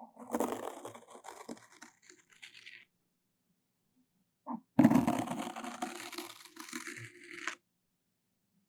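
Floss rubbed and pulled against the microphone close up, making a scratchy, crackling sound in two passes, the second louder.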